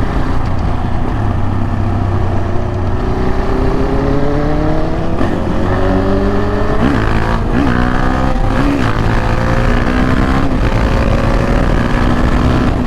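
KTM 690 Duke R's single-cylinder engine accelerating on the road, its note rising steadily over several seconds with a few brief blips midway, over constant wind rush on the rider's microphone.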